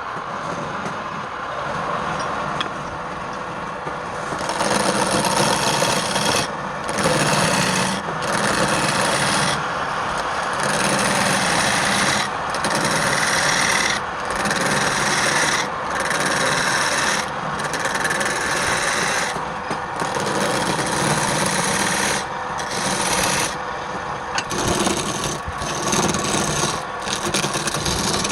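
Wood lathe running, with a cutting tool or sandpaper scraping against the spinning workpiece. From about four seconds in, the scraping comes in repeated passes broken by short pauses.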